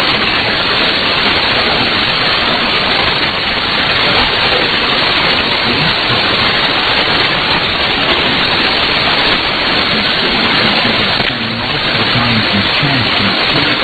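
Loud, steady shortwave static and hiss from an AM receiver: the station's signal has faded down into the noise, leaving the newsreader's voice buried, with faint traces of it coming back near the end.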